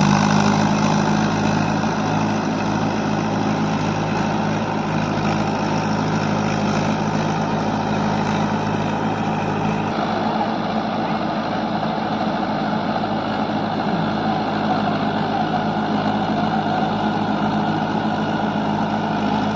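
Mahindra 475 DI tractor's diesel engine running steadily at an even speed.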